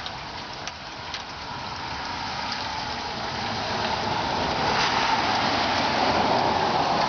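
A car approaching on a wet road, its tyre hiss on the wet pavement swelling gradually over several seconds and easing slightly near the end.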